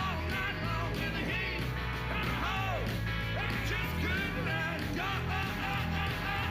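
Rock and roll band playing, with a steady driving beat under short high notes that bend up and fall away.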